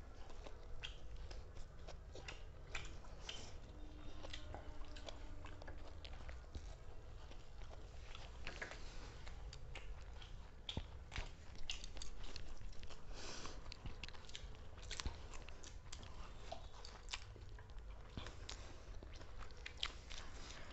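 Fast chewing and biting of food, with irregular small crunches and mouth clicks, over a low steady hum.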